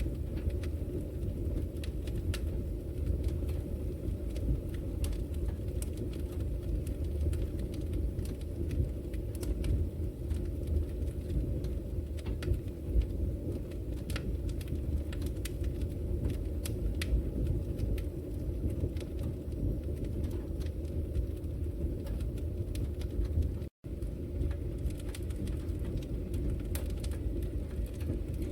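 Wood fire burning in a fireplace: a steady low rumble of flames with frequent sharp crackles and pops from the logs. The sound cuts out for a split second about 24 seconds in.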